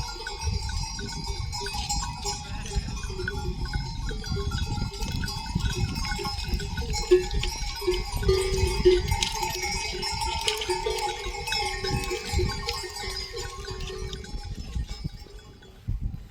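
Bells on a flock of sheep clanking and jangling continuously as the animals move and graze, fading out near the end.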